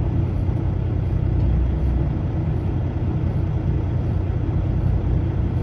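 Semi truck's diesel engine running steadily, a low even rumble heard from inside the cab.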